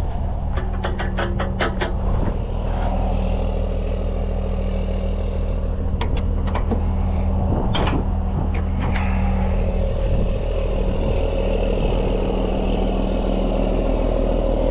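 Heavy truck engine running at a steady, unchanging speed, with a quick run of clicks about a second in and a few sharp clicks or knocks between about six and nine seconds in.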